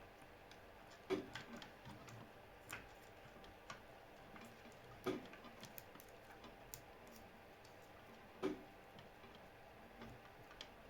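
Scattered light clicks and taps over a quiet background, with three sharper knocks about a second in, about five seconds in and about eight and a half seconds in.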